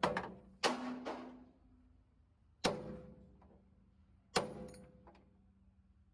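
Hammer blows on steel, three strikes about two seconds apart, each ringing briefly after the hit.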